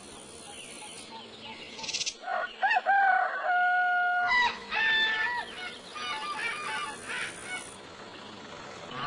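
Rooster crowing: a rising call ending in a long held note, followed by shorter clucking calls.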